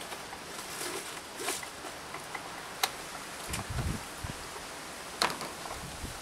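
Rustling over a steady hiss, with a few sharp clicks and some dull low thumps a little past the middle.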